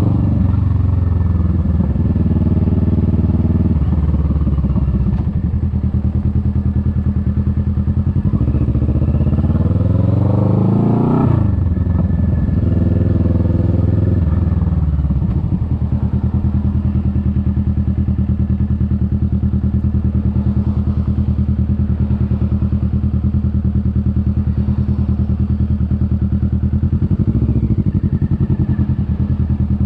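Kawasaki Vulcan S 650's parallel-twin engine running under way, heard from on the bike. It revs up for several seconds, drops sharply in pitch about eleven seconds in, eases down, then holds a steady cruise for the rest.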